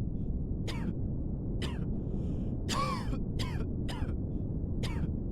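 Crows cawing over and over, short harsh calls about once a second, over a steady low rumble of background noise.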